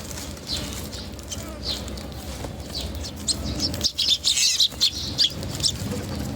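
Small birds chirping: scattered short high chirps, then a quick flurry of chirps about three to five seconds in.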